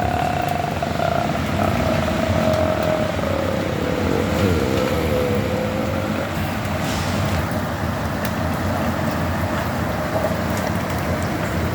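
A vehicle running, with a whine that slowly drops in pitch over the first half and then holds steady, over a constant rumbling noise.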